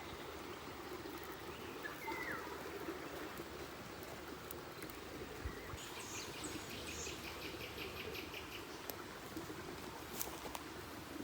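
Birds calling over a steady background hiss: a short chirp about two seconds in and a rapid, even trill about six seconds in, with a few scattered sharp clicks.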